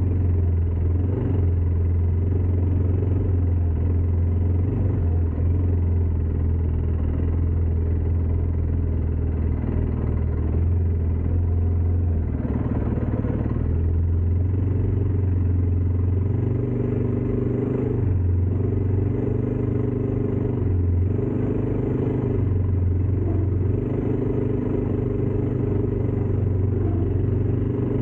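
ATV engine running steadily during a ride. From about halfway on, its pitch steps up and down every second or two as the engine speed changes.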